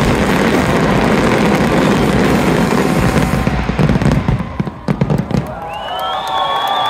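A dense fireworks barrage crackling and bursting, thinning out to a few last separate bangs around four to five seconds in. Near the end a crowd starts cheering, with a long high whistle.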